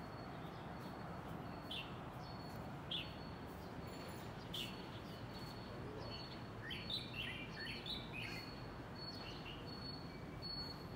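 Birds chirping: a few short single calls about a second or more apart, then a quick run of chirps in the middle, over a faint steady high-pitched tone and an even low background hum of outdoor noise.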